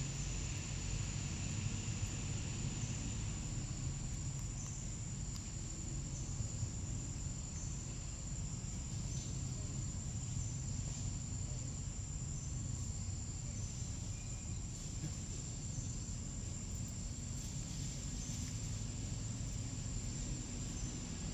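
Steady, high-pitched insect drone, crickets or cicadas, over a constant low rumble, with faint short chirps repeating every second or two.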